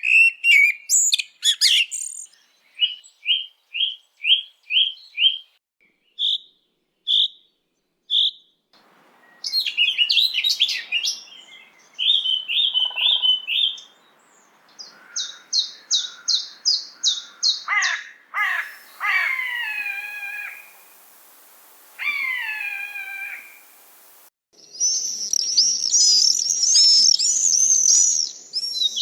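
Bird song in several recorded excerpts: series of short clear notes repeated about once or twice a second, fast runs of rapid notes, phrases that slide downward in pitch, and a dense, twittering warble near the end.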